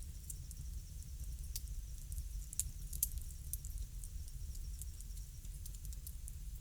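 Bonfire crackling: irregular sharp pops and snaps over a steady low rumble of burning.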